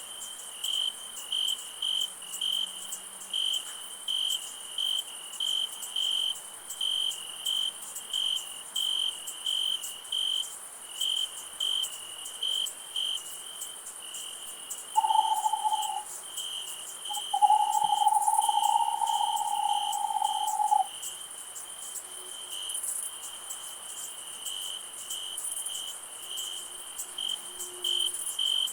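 Crickets chirping steadily about twice a second over a constant high insect hiss, with an owl giving a short hoot about halfway through followed by a longer, held hoot.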